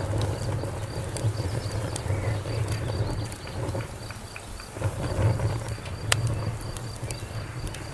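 Wood fire crackling, with scattered sharp pops and a strong one about six seconds in over a low rumble of flames. A cricket chirps steadily in the background.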